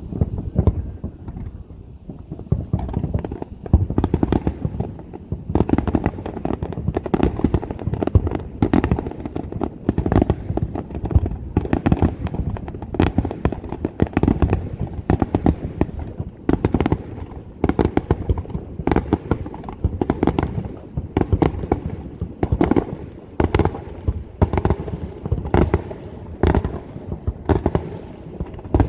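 Fireworks finale: a rapid, continuous barrage of aerial shell bursts, many booms and bangs a second overlapping without a break.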